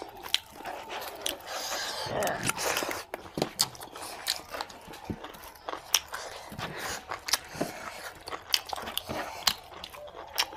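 Close-up eating sounds of people eating rice and mutton curry with their hands: chewing and mouth noises, a run of short irregular clicks.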